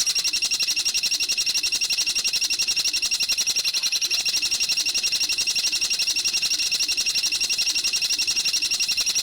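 Recorded bird call played for bird training: a rapid, perfectly even run of high chirping notes repeated without a break.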